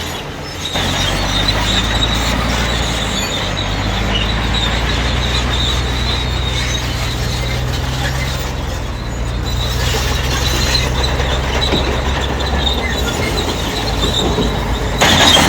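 Crawler bulldozer's diesel engine running steadily under load, with the high squeal of its steel tracks, loudest near the start and again near the end.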